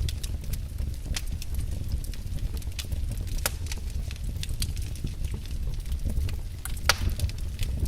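Wood fire burning in a fireplace: a steady low rumble of flames with irregular sharp crackles and pops from the burning logs, the loudest pop about seven seconds in.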